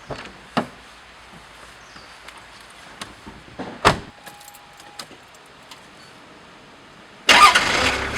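A few sharp clicks and knocks with a jingle of keys, the loudest knock about four seconds in, like someone handling keys and a vehicle door. Near the end music cuts in suddenly and much louder.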